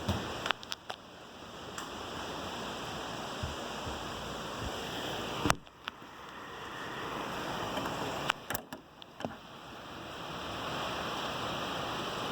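Heavy rain pouring steadily, broken by a few sharp clicks or knocks, the loudest about five and a half seconds in.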